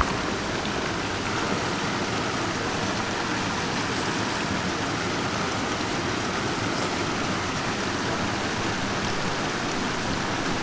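Steady rushing of a mountain stream's flowing water, an even wash of noise with no breaks.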